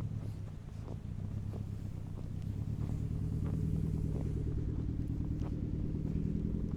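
A motor vehicle's engine running with a steady low hum, getting a little louder a few seconds in.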